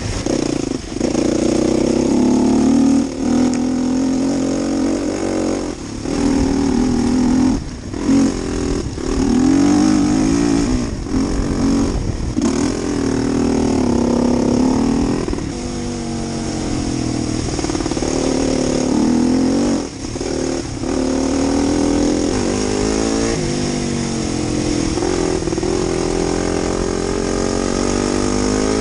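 Single-cylinder four-stroke engine of a 2012 Husqvarna TE250 enduro bike under way off-road, its pitch rising and falling with repeated throttle changes and brief drops off the throttle.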